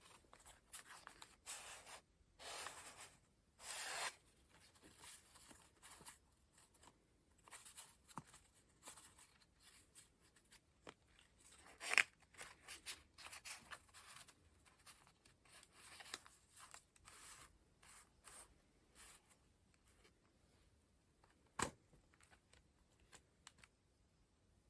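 Paper pages of a collage book being turned by hand: soft, irregular rustling and sliding of thick, layered pages, with a sharp tap about halfway through and another near the end.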